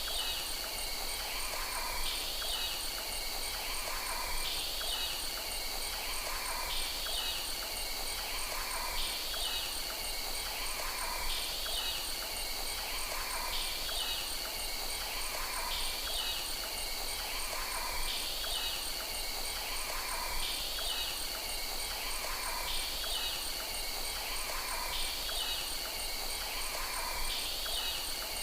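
Insects trilling steadily, with a short call repeating about every two seconds.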